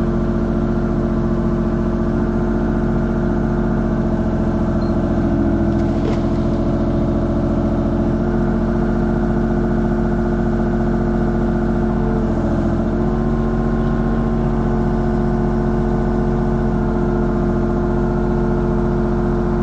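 Mini excavator's diesel engine running steadily while digging, its pitch shifting slightly about two-thirds of the way through as the load changes.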